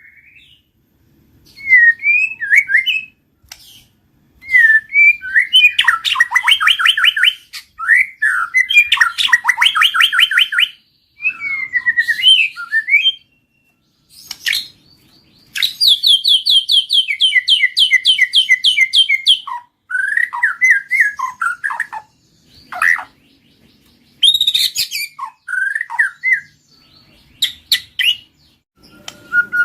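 White-rumped shama singing a varied song: loud whistled glides alternating with rapid trills of quickly repeated notes, in phrases separated by short pauses.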